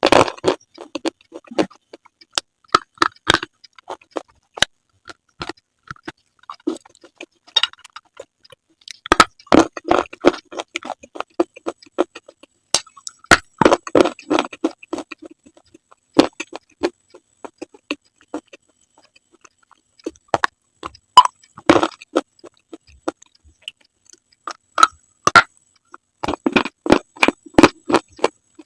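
Close-miked crunching of someone biting and chewing brittle slate: sharp, crackly clicks and snaps in irregular clusters, thinning out for a few seconds around the middle.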